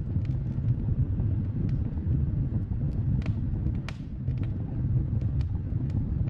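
Wood fire burning with a steady low rumble and scattered sharp crackles and pops, the strongest near the middle.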